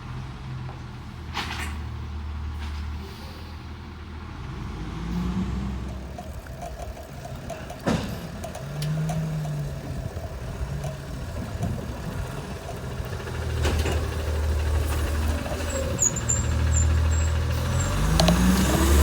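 Autocar ACX garbage truck's diesel engine running, rising and falling in pitch several times as it works the McNeilus AutoReach automated side-loader arm, with a sharp knock about eight seconds in. The engine climbs to a louder, higher note near the end.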